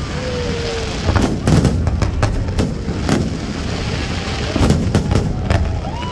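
Fireworks display bursting overhead: many sharp bangs in quick, overlapping succession over a steady low rumble.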